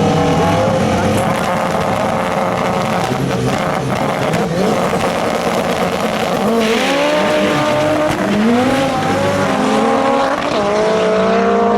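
Drag cars running a pass down the strip, engines revving hard. The pitch climbs and drops back sharply with each gear shift, about every two seconds in the second half.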